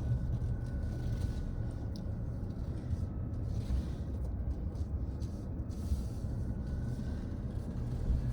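Steady low rumble of a car's engine and tyres heard from inside the cabin while driving down a mountain road, with a faint steady high whine.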